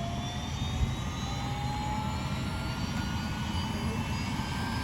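Medical helicopter's turbine engine starting up: a whine slowly rising in pitch over a low rumble.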